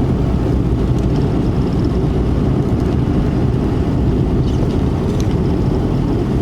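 Steady rumble of a pickup truck driving on the road, engine and road noise heard from inside the cab.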